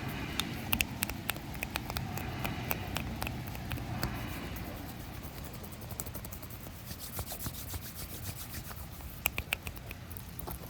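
Rubbing and scratching sounds made close to the microphone, with many scattered small clicks and crackles.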